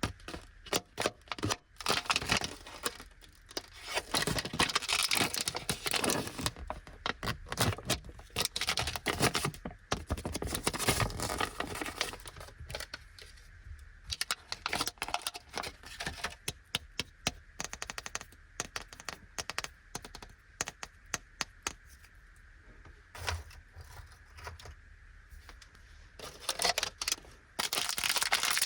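Plastic candy wrapper, from a chocolate lollipop, crinkling and crackling as it is opened and handled, with many sharp clicks. The crackling is dense at first, thins to scattered clicks, and turns busy again near the end.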